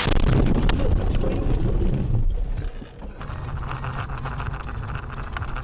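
Vehicle and road rumble picked up by a dashcam, loud and rough with a few sharp knocks for the first two seconds. About three seconds in it cuts to a different, thinner-sounding dashcam recording of steady road noise.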